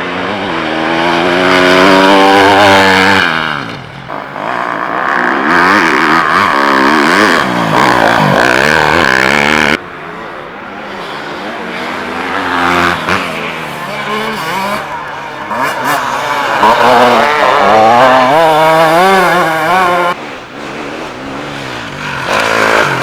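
Enduro dirt bike engines revving hard at full throttle, the pitch climbing and dropping as they change gear. The sound changes abruptly about ten and twenty seconds in.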